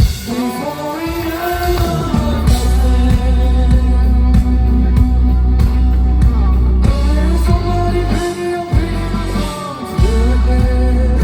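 Live rock band playing loudly, with electric guitar, heavy bass and drums under a singing voice.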